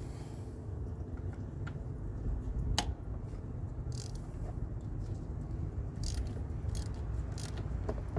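Small metal objects clinking and clicking a few times, one sharp click standing out near the middle, over a steady low rumble.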